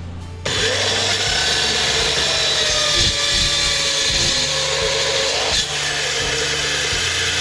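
A power tool working metal starts abruptly about half a second in and runs steadily, with a brief knock a little before the end.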